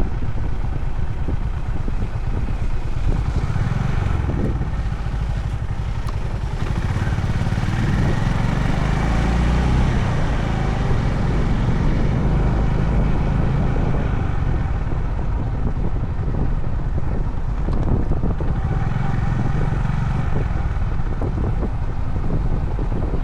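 Honda CB350 H'ness single-cylinder motorcycle engine running steadily under way, with wind noise on the microphone.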